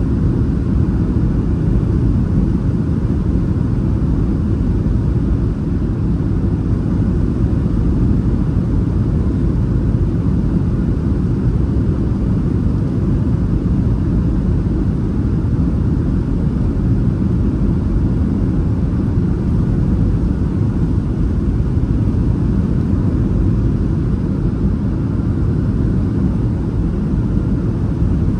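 Steady low rumble of a Boeing 737 airliner in flight, heard from inside the cabin: engine and airflow noise on the approach to landing.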